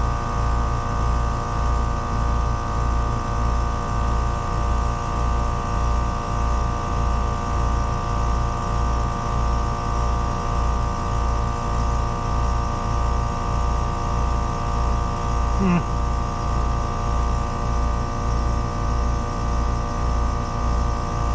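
Trane two-stage heat pump outdoor unit running in second stage: a steady compressor and fan hum with a low throb about one and a half times a second and several steady tones over it. A brief chirp about sixteen seconds in.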